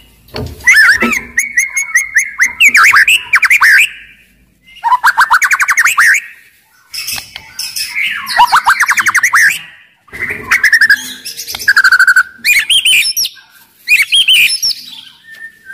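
White-rumped shama singing loudly, in a series of fast, varied phrases of rapid trills, chattering notes and whistles with short pauses between them. It is the full, aggressive song of a bird in top singing form.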